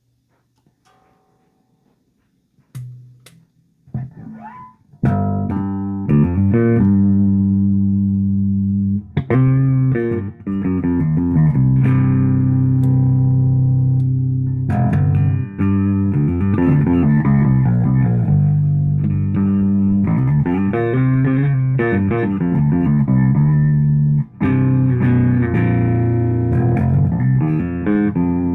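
Rivolta Mondata electric bass played through a 1962 Fender Bassman amp stack. After a few seconds of faint clicks and a short test note, loud sustained notes and riffs begin about five seconds in, with brief breaks between phrases.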